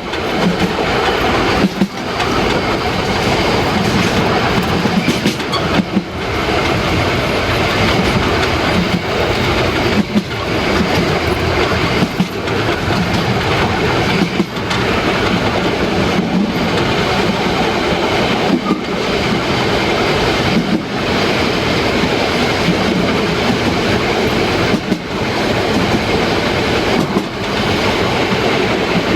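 Narrow-gauge train running along the track: a steady, loud rumble and clatter of wheels on rails, with a regular beat every couple of seconds.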